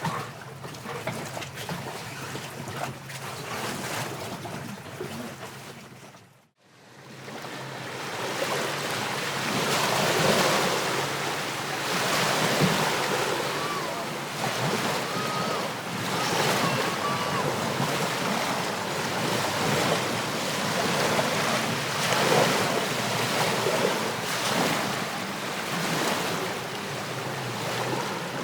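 Ambience recording: a first background fades out about six seconds in, then sea waves and wind fade in, the wash swelling and ebbing every few seconds, with a few faint short chirps partway through.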